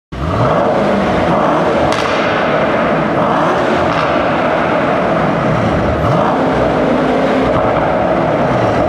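Mercedes-AMG E63 S's 4-litre twin-turbo V8 and exhaust running loud, its note rising and falling a few times. The sound cuts in suddenly at the start.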